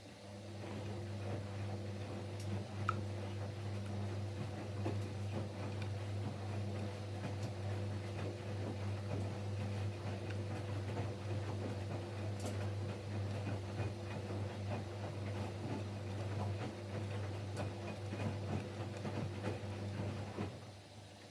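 Siemens Siwamat Plus 574 front-loading washing machine turning its drum during the rinse with fabric softener: a steady motor hum with many small irregular ticks and splashes from the wet laundry. It starts just after the opening and stops about a second before the end, when the drum pauses.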